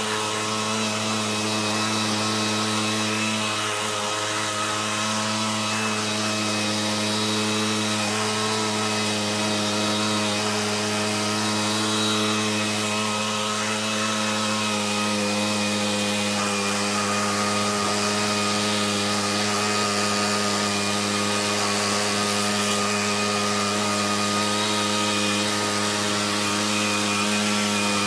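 Stihl BR600 backpack leaf blower's engine running at a steady speed, blowing. It runs well after new fuel pipes and a fuel cap, though the owner thinks the high-speed jet needs a little adjustment.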